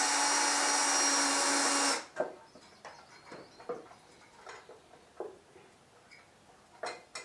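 A power drill runs steadily at one speed, then cuts off about two seconds in. After that come faint scattered clicks and light knocks of tools and small metal parts being handled.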